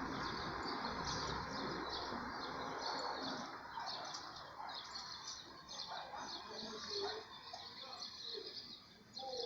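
A flock of small songbirds chirping, many quick high chirps overlapping throughout. A low steady rumble underneath fades out over the first few seconds.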